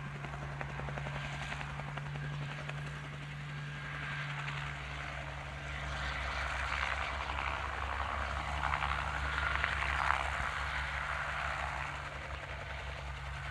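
Crop-duster helicopter's rotor and engine, a steady distant drone with a fast low beat, as it comes down to land after finishing spraying. A hissier mid-range wash swells for a few seconds in the middle.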